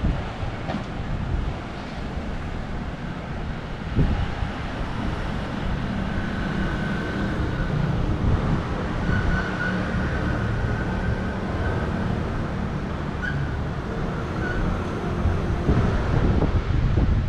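Wind buffeting the action camera's microphone, over a steady rumble of street traffic, with a single thump about four seconds in.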